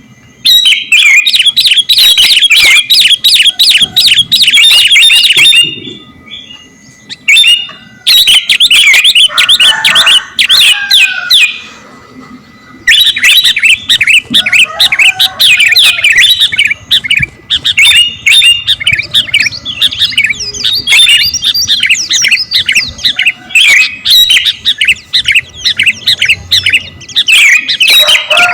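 Sooty-headed bulbul (kutilang) in full song: loud, rapid runs of chirping phrases, broken by two short pauses, about six and about twelve seconds in.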